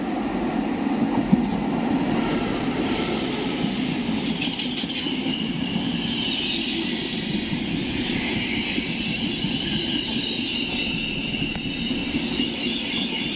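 A Trenitalia Intercity train of passenger coaches, led by an E414 electric locomotive, running past along the platform: a steady rumble of wheels on the rails that swells in the first seconds, with a high-pitched wheel squeal from about three seconds in.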